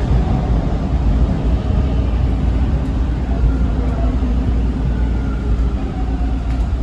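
Interior of a TTC T1 subway car running on the rails: a steady low rumble, with a faint motor whine that shifts in pitch from about halfway through.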